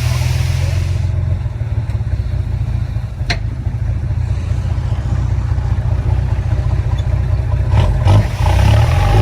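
Heavy diesel earthmoving machinery running steadily at a low, deep pitch. There is one sharp knock a little over three seconds in, and the engine picks up and gets louder near the end.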